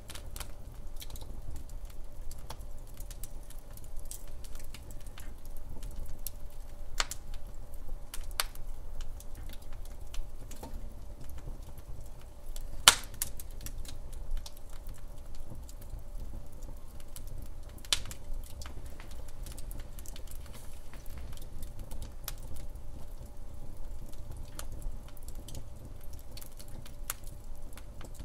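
Wood fire crackling in a fireplace: irregular small snaps and pops over a low steady rumble, with two louder pops about 13 and 18 seconds in.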